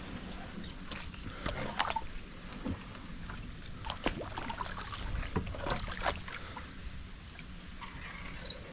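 Kayak being paddled: irregular paddle splashes and sharp knocks over a steady low background of water noise.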